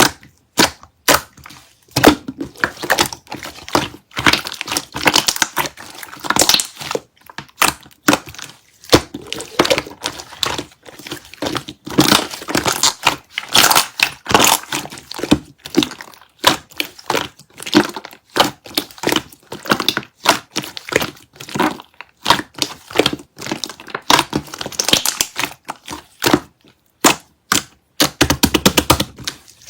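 Close-up crinkling and crackling of Mychew chewy-candy wrappers being handled and unwrapped, in quick irregular bursts.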